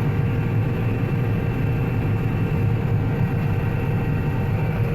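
Combine harvester running steadily while cutting wheat, heard from inside the cab: a constant low engine and threshing-machinery drone with a few steady humming tones over it.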